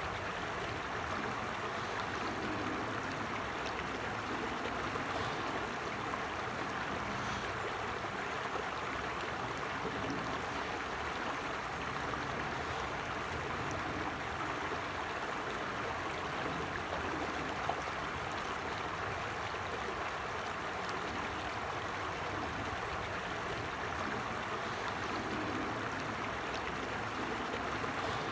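A forest stream flowing steadily over stones, with a constant rushing and babbling of water.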